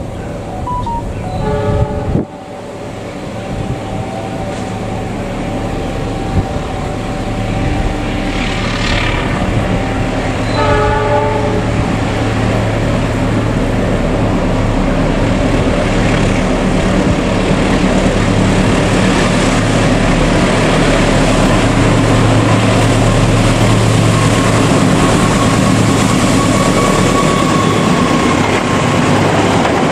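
KAI diesel-electric locomotive approaching with a long train of passenger coaches, its engine growing louder as it nears. The horn sounds near the start and again about ten seconds in, then the coaches roll past with steady wheel clatter.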